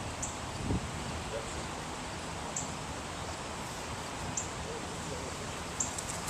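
Outdoor ambience: a steady rushing noise, with a short high chirp about every two seconds and a dull thump about a second in.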